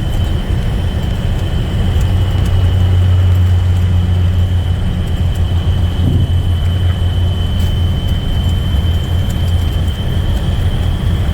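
Box truck under way: steady low engine and road rumble, with a thin high steady whine over it.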